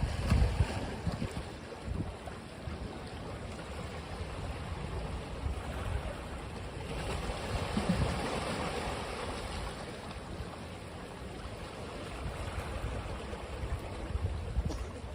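Ocean waves washing onto a beach, one swelling to a peak about eight seconds in, with gusts of wind rumbling on the microphone near the start.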